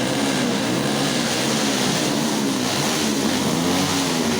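Several motocross bikes' engines running together, their pitch rising and falling as the riders blip the throttles.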